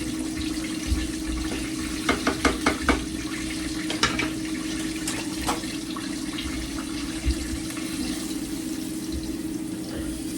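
Chicken frying in hot oil: a steady sizzle with a faint steady hum beneath. A quick run of about five sharp clicks comes about two seconds in, with a few single clicks a little later.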